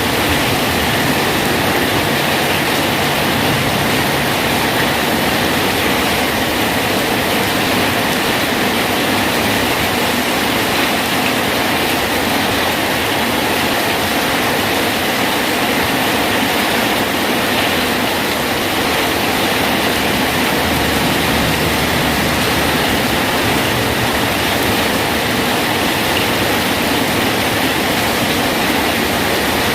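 Steady rain falling on a bridge: an even, unbroken hiss of water.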